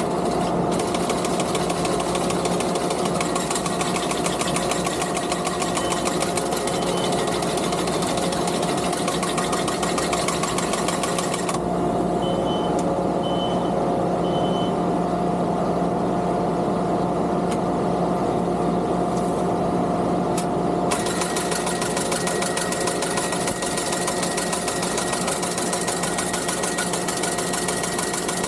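Skid steer engine running steadily, driving a sickle bar mower whose cutter makes a rapid fine clatter. The clatter stops about 11 seconds in and starts again about three quarters of the way through. Three short high beeps sound in the gap.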